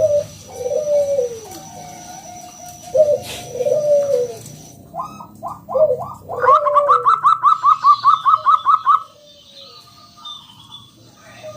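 Zebra dove (perkutut) cooing: a few falling coos first, then about six seconds in a fast run of about a dozen short, higher notes, roughly five a second, ending about nine seconds in.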